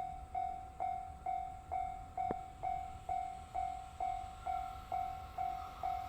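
Railway level-crossing warning bell ringing steadily, about two strikes a second, each ring fading before the next. From about four and a half seconds in, a faint higher noise builds underneath.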